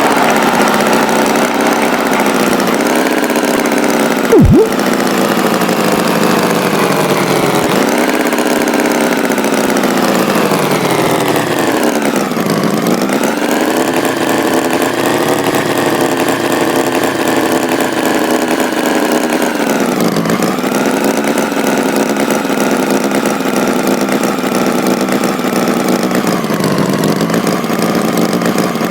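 Tractor engine running steadily, its pitch sagging and recovering three times. A short loud blip sounds about four and a half seconds in.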